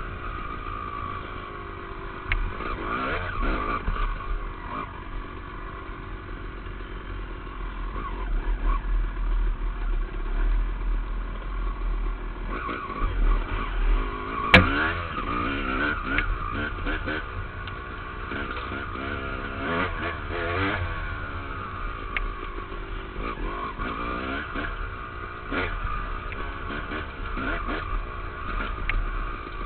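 Dirt bike engine revving up and falling back again and again as it is ridden along a trail, heard from a helmet camera with wind and rumble on the microphone. A single sharp knock about halfway through.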